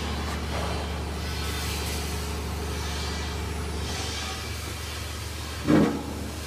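Steady low machine hum with a hiss over it, broken by one short loud knock near the end.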